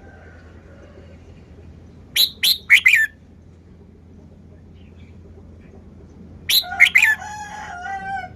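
Red-whiskered bulbul singing two short phrases: a quick run of four sharp notes about two seconds in, then near the end a longer phrase of sharp notes running into a warbled, drawn-out ending.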